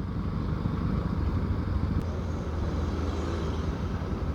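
Motorcycle engine running steadily on the move, a low rumble under road and wind noise.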